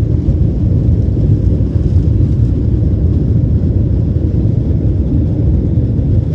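Loud, steady low rumble inside an airliner cabin from the engines and the runway as the plane speeds up for takeoff.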